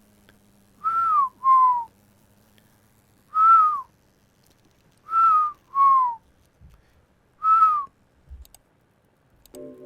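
A person whistling six short notes, each bending down in pitch at its end. They come as a pair, a single note, another pair and a single, with a couple of faint clicks after them.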